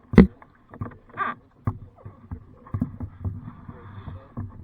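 Irregular knocks and thumps on a kayak, the loudest one just after the start, with lighter knocks scattered through.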